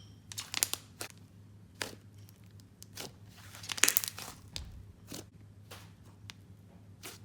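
Slime being stretched, squished and poked by hand, giving irregular sticky crackles and pops with a louder crackling burst about four seconds in.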